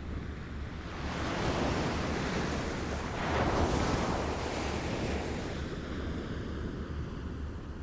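Small waves lapping at the shore: the water swells in about a second in, peaks around the middle and recedes, with a low rumble of wind underneath.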